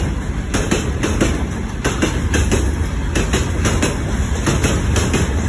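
A freight train of open gondola wagons rolling past close by, a steady low rumble with the steel wheels knocking over the rail joints several times a second.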